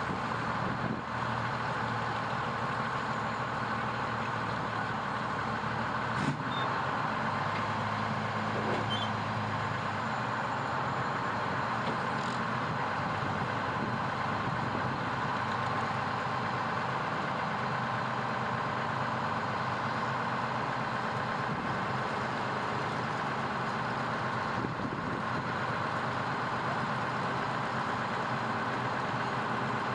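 Fire truck engine running steadily at a low, idling pace, with a single sharp click about six seconds in.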